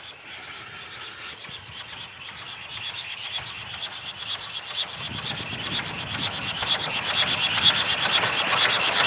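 Steam-hauled train approaching on the rails, its running noise and a fast clatter growing steadily louder.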